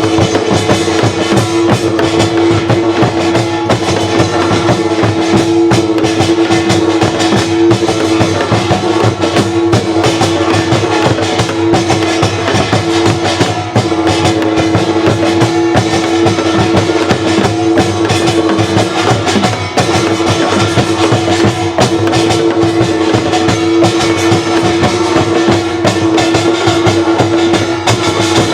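Korean traditional folk music: dense, fast percussion strikes over a steady held tone.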